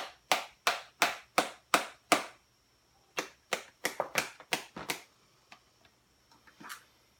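Sharp hand slaps, about three a second, in two runs: the first stops about two seconds in, the second runs from about three to five seconds in. A few faint clicks follow.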